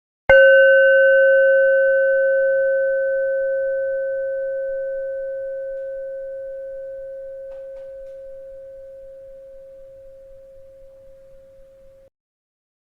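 A bell struck once, ringing a clear low tone with fainter higher overtones that fades slowly over about twelve seconds before cutting off suddenly.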